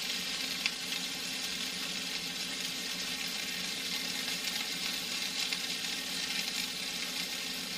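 Food sizzling steadily in a pan, with a few faint crackles over a low, steady hum.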